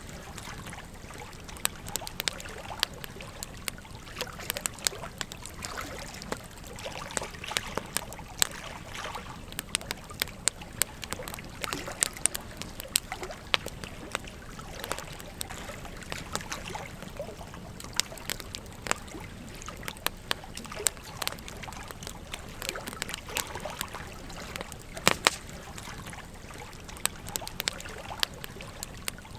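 Wood campfire crackling, with frequent sharp pops, over the steady trickle of a gentle stream.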